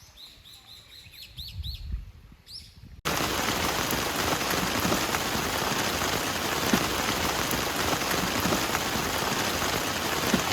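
A small bird chirping, a quick series of short rising-and-falling notes. About three seconds in, steady heavy rain cuts in suddenly and drowns everything else out.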